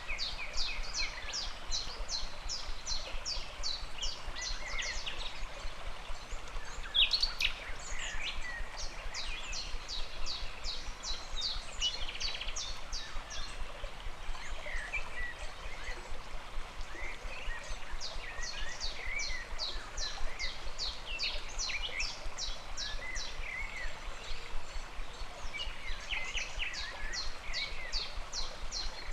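Flowing stream water as a steady hiss, with birds calling over it: long runs of rapid high chirps, several a second, and scattered lower chirps between them.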